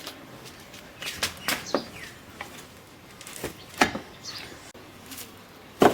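A series of sharp knocks at irregular intervals, several close together after about a second and the loudest near the end, with birds chirping in the background.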